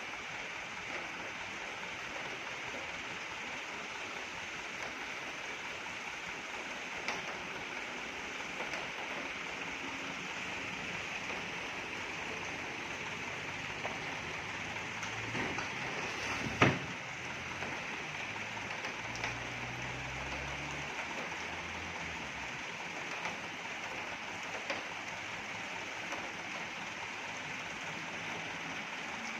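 Steady rain, a continuous even hiss. A little past halfway a low rumble rises for several seconds, with one sharp knock near its start.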